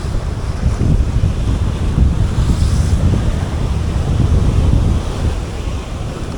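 Strong wind buffeting the microphone in gusts, a loud low rumble, with sea surf behind it.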